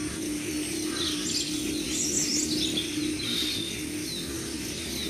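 Birds chirping: a series of short, high calls and trills, busiest in the middle, over a steady low hum.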